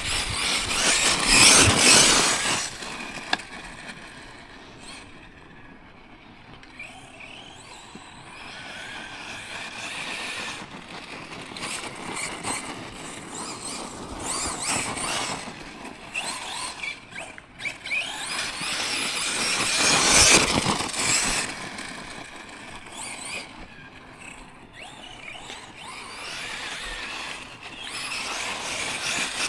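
Tekno MT410 2.0 electric 1/10 RC monster truck being driven hard: its motor whines up and down with throttle while the tyres scrabble over rough ground. It is loudest as it passes close about a second in and again about 20 seconds in.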